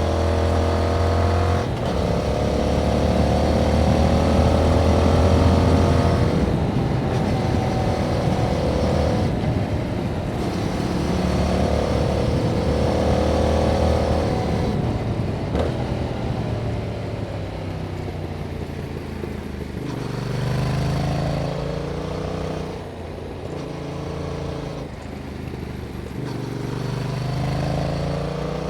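Yamaha MT-07's 689 cc parallel-twin engine running through its stock exhaust while riding, its pitch climbing in several long sweeps as it is accelerated, then dropping lower and uneven in the second half before rising again near the end.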